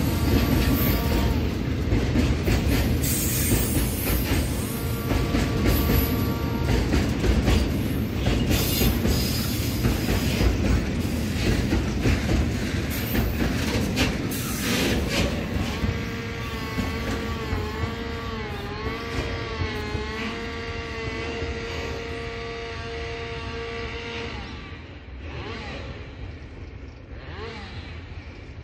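Freight train of tank wagons rolling past: heavy wheel rumble and clatter over the rail joints, with a wavering metallic squeal in the second half, fading as the train draws away.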